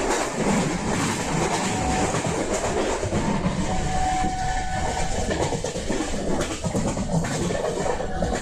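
Passenger train running along the track, a steady rumble with the clatter of wheels over the rails.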